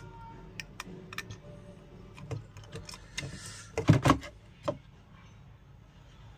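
Light clicks and taps as a TDA7265 amplifier IC's legs are worked into the holes of a circuit board, with a few louder knocks about four seconds in and one more shortly after. A faint low hum runs underneath.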